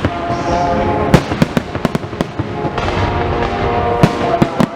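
Fireworks going off in quick succession: a string of sharp bangs and crackling reports, irregularly spaced, with a heavier cluster near the end.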